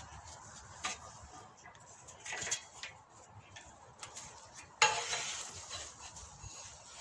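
Hollywood swing's suspension springs and their mountings on the top frame working as the swing moves: light metallic clicks and rubbing, with a sudden louder metallic scrape about five seconds in that fades over a second or so. Friction between spring and frame is what causes the swing's squeak.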